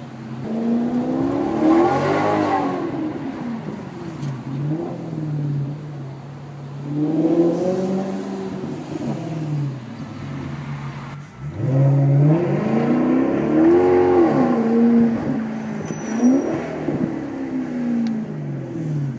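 Maserati GranTurismo S MC Sportline's 4.7-litre V8 being driven hard. The engine note rises in several long sweeps and drops back each time, with the loudest and longest pull about two-thirds of the way through.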